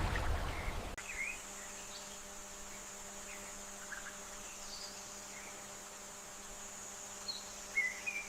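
Quiet outdoor ambience: a steady high insect drone with a few faint, brief bird chirps scattered through it. A louder rush of wind or water fades and cuts off about a second in.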